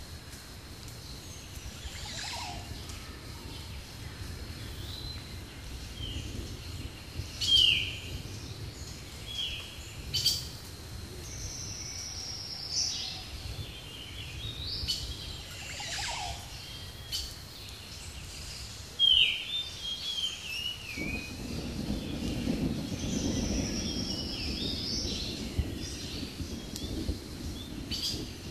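Wild birds chirping and calling, many short falling chirps and a few longer whistles, over a steady low background hiss; about three-quarters of the way through, a lower rushing noise joins in.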